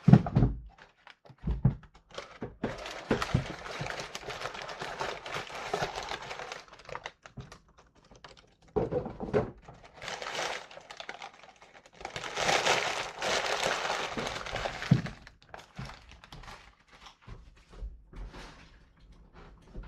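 A shipping package being handled and opened by hand: repeated knocks and thunks of the box being moved, with two longer stretches of rustling and tearing packaging.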